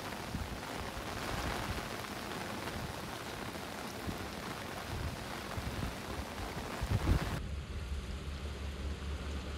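Heavy rain pouring steadily, with a few low knocks, the loudest about seven seconds in. Near the end it cuts abruptly to a quieter, steady low hum.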